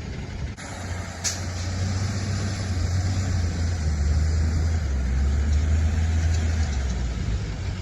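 Tow truck's engine running with a steady low drone that grows louder about half a second in and eases off near the end. A short sharp noise cuts in about a second in.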